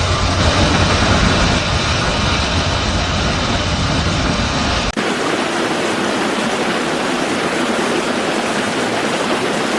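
Steady rumble of vehicle engines and traffic under a wash of noise. About halfway there is an abrupt cut to a steady rushing of water, with the low rumble gone.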